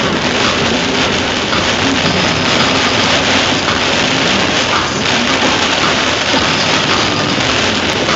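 Heavy rain pouring onto the windshield of a moving RV, heard from inside the cab as a steady, dense hiss.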